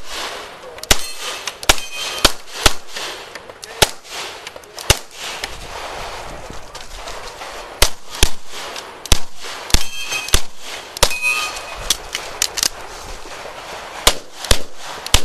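Gunfire from a 9mm CZ Shadow 2 pistol during a timed IPSC stage: about twenty shots in quick strings of two to four, with short pauses between strings while the shooter moves between positions. A few shots are followed by a short ringing clang of steel targets being hit.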